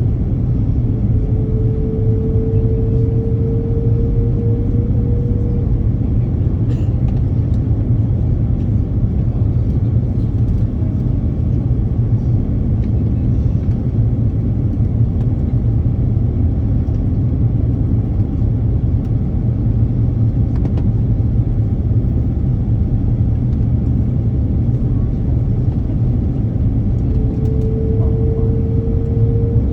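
Steady low rumble of an airplane after landing, with a faint whine rising slightly in pitch twice.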